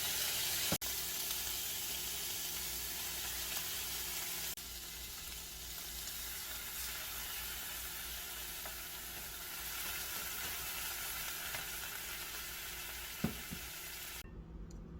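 Food frying in a pan with a steady sizzle, stepping in level twice early on and cutting off abruptly shortly before the end. A single light knock sounds shortly before the cut-off.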